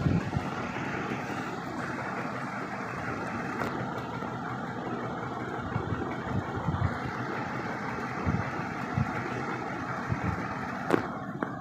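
Puja Hi-Breeze ceiling fan running with a steady whir and irregular low thumps, plus a sharp click near the end. It is wobbly and very noisy after its repair.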